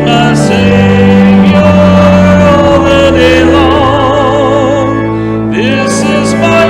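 Hymn singing with organ accompaniment: voices hold long notes, some with a wide vibrato, over sustained organ chords that change every few seconds.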